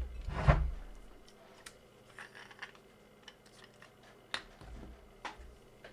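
Bench handling noises in a small workshop: a knock with a low thump about half a second in, then light rustling and a few sharp clicks of tools or parts being picked up and set down.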